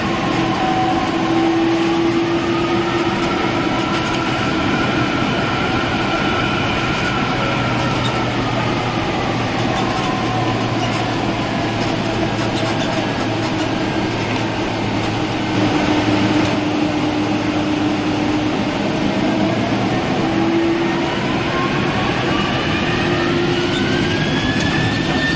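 Boeing 767-300ER cabin noise: a steady rumble from the twin jet engines, with whining tones that sink through the first half and climb again near the end.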